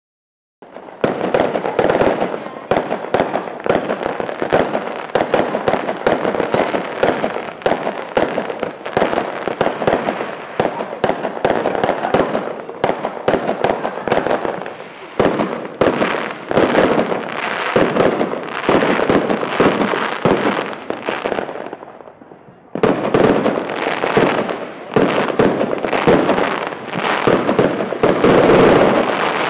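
Fireworks going off: a long, dense run of rapid cracks and bangs that breaks off briefly about twenty-two seconds in, then starts again.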